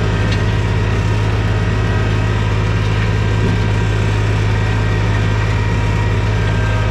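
TYM T224 subcompact tractor's diesel engine running steadily under load as it drags a box blade through grass and topsoil.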